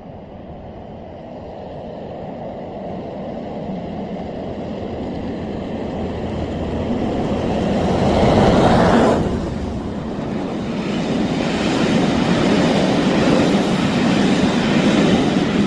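Diesel-locomotive-hauled passenger train approaching and passing, growing steadily louder to its loudest about nine seconds in, then dropping off sharply as the coaches run past with a steady rumble.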